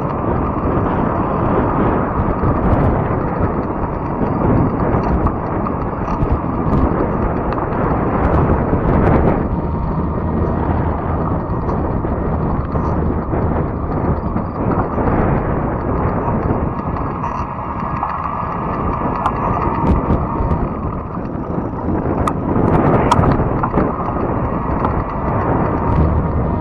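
Steady rush of wind and tyre noise from a fat-tire electric bike being ridden along a trail, with a few sharp ticks near the end.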